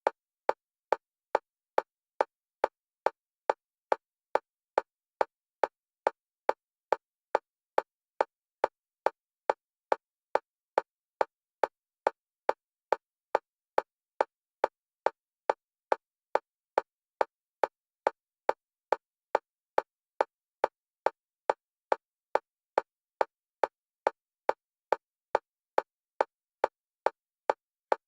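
Metronome clicks for EMDR bilateral stimulation: one pitch, evenly spaced at about two per second, all at the same loudness, alternating between left and right stereo channels.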